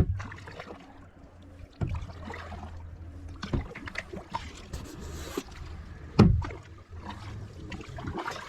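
Kayak being paddled, with water noise and a few sharp knocks spaced irregularly, loudest near the start and about six seconds in.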